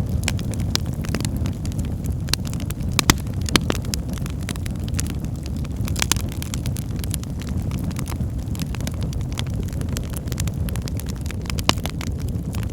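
Wood fire burning logs in a fireplace: a steady low roar with frequent sharp crackles and pops, a few louder pops about three seconds in and again near the end.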